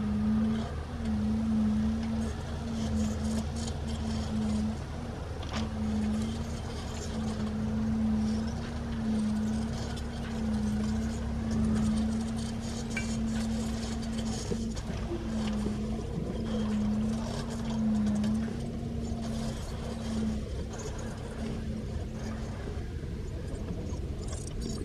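An engine running steadily: a low hum with a slightly wavering tone over rumble, which stops near the end.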